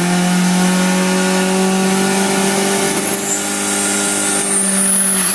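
Turbocharged engine running loudly at high, nearly steady revs, with a thin high whine rising in pitch over the second half.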